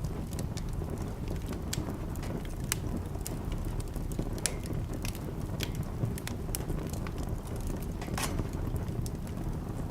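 Wood fire burning in a fireplace: a steady low rumble of the flames with irregular sharp crackles and pops, a few louder pops about two and a half, four and a half and eight seconds in.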